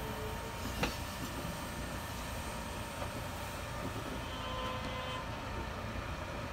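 Four-car Kintetsu limited-express train rolling slowly into the depot with a steady low rumble. Its wheels give one sharp click over a rail joint just under a second in, and a faint wheel squeal about four and a half seconds in.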